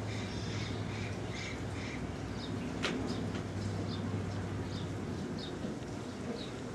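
Short bird chirps repeating every half second or so over a steady outdoor background hiss and a low hum, with a single sharp click about three seconds in.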